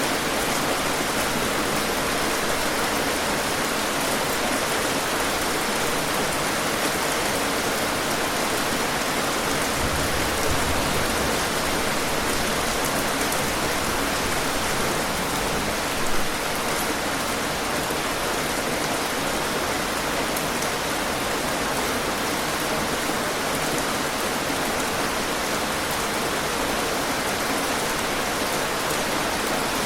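Steady, dense rainfall, an even patter of raindrops, with one brief louder hit about sixteen seconds in.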